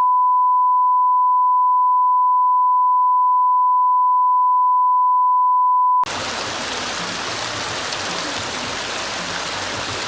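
A steady pure 1 kHz test tone for about six seconds that cuts off abruptly, followed by a steady rush of flowing water.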